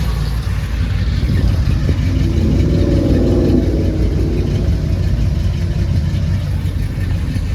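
Car engine running at idle, with a brief rise in pitch about three seconds in.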